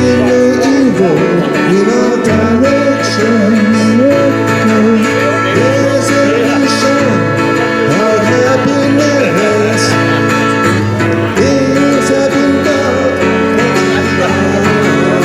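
Acoustic guitar and bass playing a country-style instrumental passage: steady strummed chords under a lead melody that slides and bends between notes.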